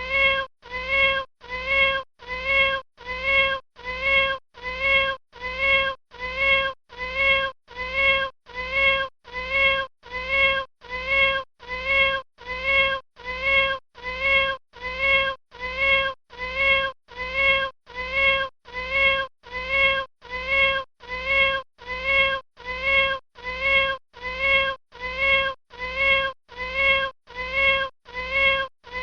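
A kitten's short meow repeated over and over at a perfectly even pace, about four calls every three seconds. Each call is the same, as in a looped recording.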